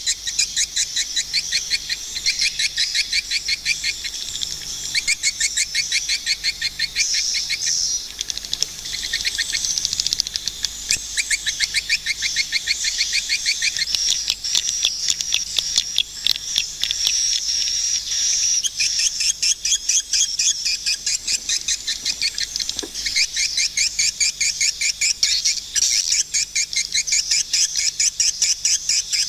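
Swiftlets calling: a dense, continuous twittering of high, rapidly repeated chirps, several a second.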